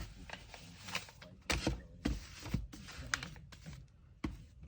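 Hand-packing sounds: irregular sharp taps and clicks of objects set down and handled on a tabletop, mixed with rustling of kraft paper.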